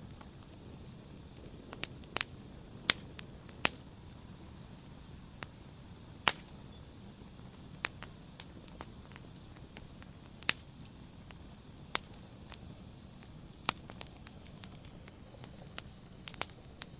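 Wood fire burning in a fireplace: a soft steady hiss with sharp, irregular crackles and pops of burning logs, about one every second or two.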